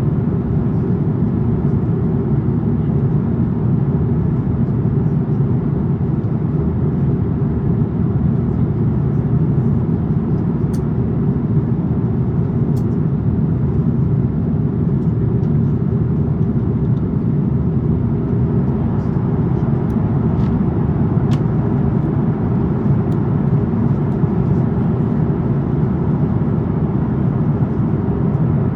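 Airbus A350-900 cabin noise in flight: a deep, steady drone of airflow and Rolls-Royce Trent XWB engines, with a few faint ticks.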